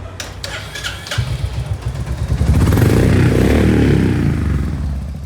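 Royal Enfield Hunter 350's single-cylinder engine running at idle, with a few sharp clicks about a second in, then revved up for a couple of seconds before easing back. Its loose tappets have just been tightened, and the tappet noise is now much reduced.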